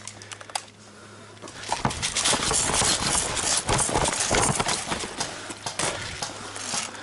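A paintball player sprinting, his running footfalls and jostling gear loud and irregular, starting about a second and a half in and easing off near the end; a few sharp clicks come before the run.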